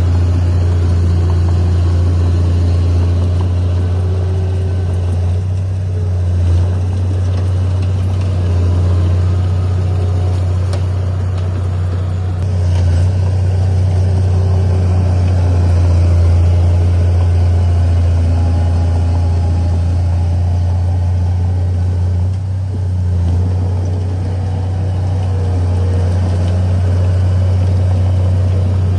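Heavy diesel engine of earthmoving equipment running steadily, with a deep, even drone that swells slightly now and then under changing load.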